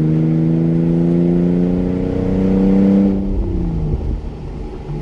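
2003 Audi A4 running with its exhaust cut off, the engine note climbing steadily as it accelerates in gear. About three seconds in the revs drop away for a gear change and the note goes rough and quieter, settling into a steady pull again at the end.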